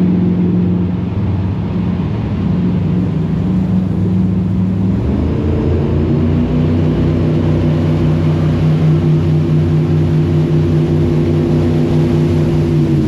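Jet boat engine running steadily, its note changing pitch about five seconds in and then holding steady.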